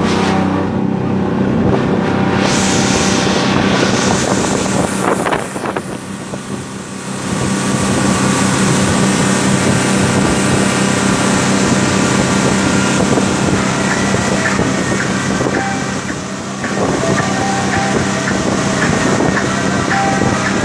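Motorboat engine running steadily under way, with wind buffeting the microphone; the sound dips briefly about five seconds in.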